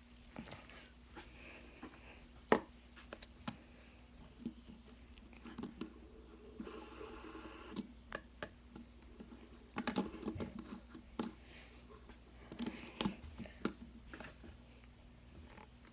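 Scattered faint clicks and taps, with one sharper click about two and a half seconds in and small clusters of clicks later on, over a low steady hum.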